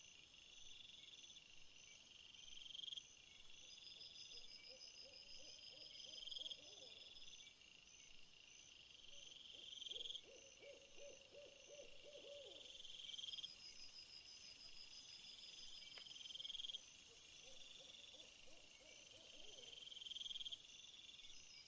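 Faint chorus of insects calling at night: high chirping phrases repeating about every second and a half, with pulsed trills above them. A high steady buzz joins about halfway through and cuts off near the end. Three times a lower wavering trill calls.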